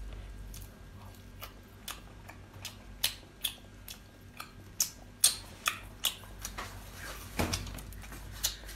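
Close-up chewing of octopus: irregular wet mouth clicks and smacks, several in quick succession at times.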